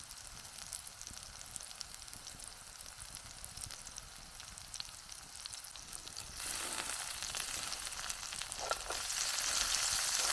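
Onions frying in olive oil in a camp oven set on hot coals: a steady sizzle with small crackles, growing louder about six and a half seconds in and again near the end.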